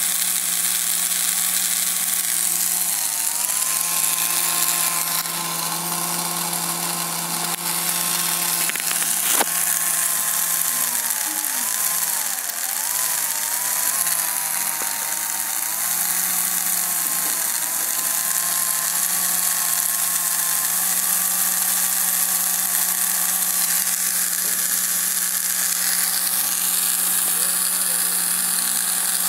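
Radio-controlled model Scania truck running: a steady motorised whine over a low hum, with the pitch dipping briefly a few seconds in and several times around the middle.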